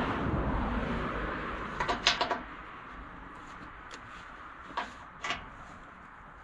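Sharp metal clinks and knocks of a wrench working the single bolt that holds the rear fender on a 1949 Allis-Chalmers G tractor. There is a cluster of knocks about two seconds in and two more near five seconds.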